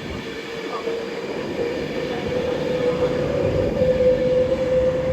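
Train running through the station, with a steady whine that slowly rises in pitch and grows louder, over a low rumble.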